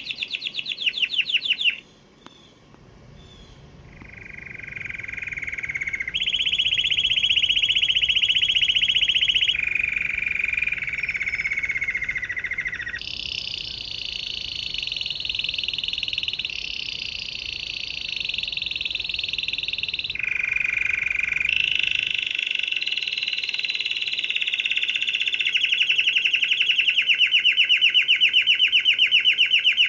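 Canary singing a long song of rapid trills: each run of fast repeated notes holds one pitch for a few seconds, then jumps to a new one. There is a short pause about two seconds in.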